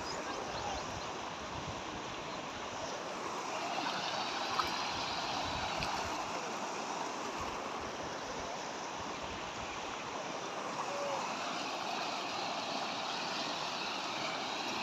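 Rain-fed seasonal river flowing fast after heavy rain: a steady, even rush of water.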